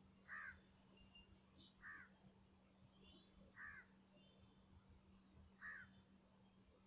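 Near silence, with a bird calling faintly four times at even intervals of about two seconds, a few fainter higher chirps between, and a steady low hum.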